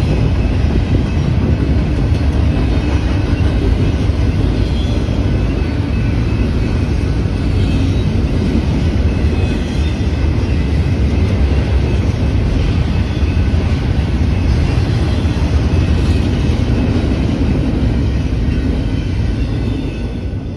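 Double-stack intermodal container freight cars rolling past on the rails: a loud, steady rumble of wheels and cars, with faint high tones over it.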